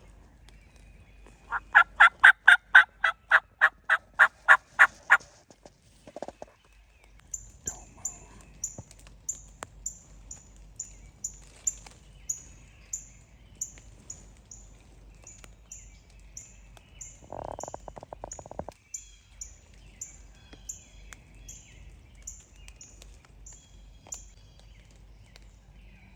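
Wild turkeys calling. A loud run of about a dozen evenly spaced yelps comes in the first few seconds, and a shorter rapid rolling call follows a little after two-thirds of the way through. A small bird repeats a thin, high, falling note about twice a second through the later part.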